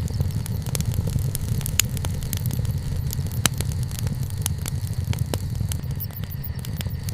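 Wood campfire crackling and popping: many quick sharp snaps over a steady low rumble of the burning fire, with a couple of louder pops.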